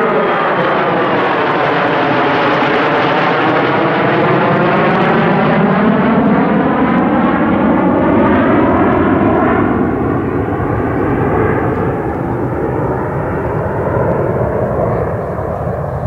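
Military jet fighters in a low formation flypast, a loud jet roar with a phasing sweep as they pass overhead and draw away.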